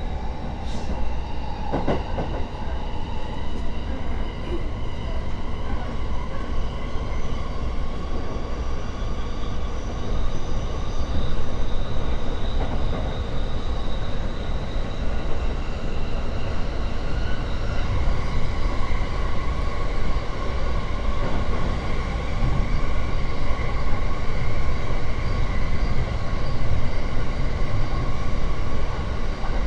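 JR East E231-series electric commuter train running at speed, heard from inside the car: the motor and inverter whine in several steady tones over the rumble of wheels on rail. There is a single knock about two seconds in.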